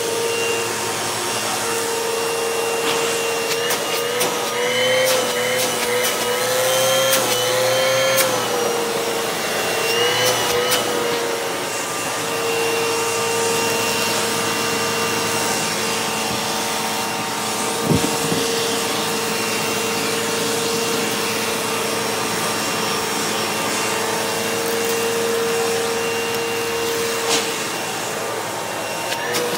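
2009 Hoover Elite Rewind upright vacuum cleaner running steadily with a motor whine. The whine wavers in pitch for several seconds near the start, with scattered clicks, and there is one sharp knock about halfway.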